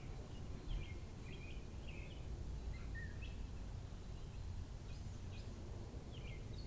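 Birds chirping outdoors, short high calls scattered throughout, over a low steady background rumble.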